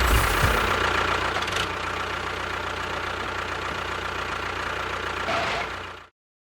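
A small motor running steadily with a thin, even whine over a low hum, cutting off abruptly about six seconds in.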